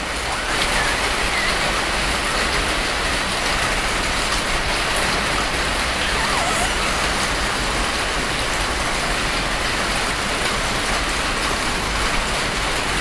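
Steady, even hiss of rain falling, unchanging throughout.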